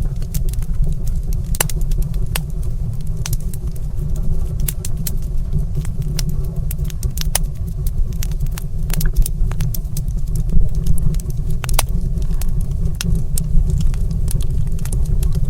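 Wood fire in a stone fireplace crackling, with scattered sharp pops and snaps over a steady low rumble.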